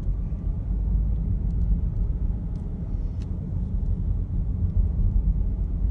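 Steady low rumble of road and engine noise inside a moving vehicle's cabin, with a few faint ticks.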